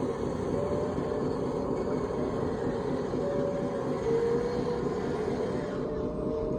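Radio-controlled heavy-equipment model running: a steady mechanical whine that wavers slightly in pitch over a continuous noisy rumble.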